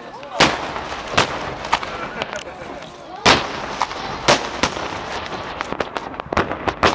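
Fireworks bursting overhead: a string of sharp bangs at irregular intervals, several coming in quick succession near the end, over a steady background murmur.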